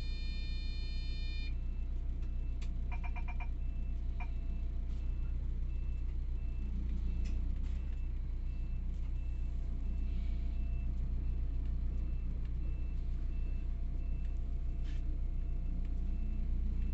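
Scania K360IB coach engine idling with a steady low hum. Over it a dashboard electronic tone sounds for the first second and a half, then a quick run of beeps about three seconds in, and after that a faint short beep repeats evenly.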